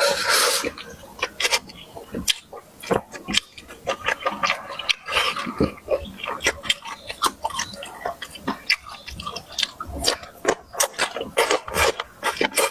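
Close-miked mouth sounds of someone eating pork belly: chewing and lip-smacking, with rapid, irregular wet clicks and smacks.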